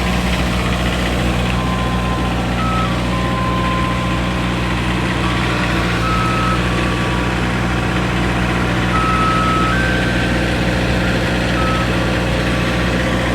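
Ice cream truck's electronic jingle playing a simple melody of single beeping notes over its engine idling with a steady low hum.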